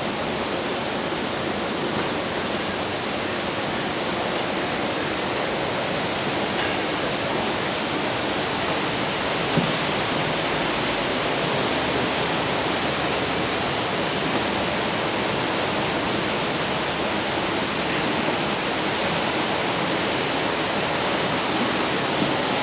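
Steady, even rushing hiss of outdoor noise, with a few faint short high sounds in the first several seconds.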